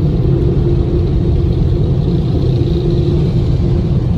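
Steady, loud machine rumble of a drive-through car wash, heard from inside the truck, with a constant hum over it.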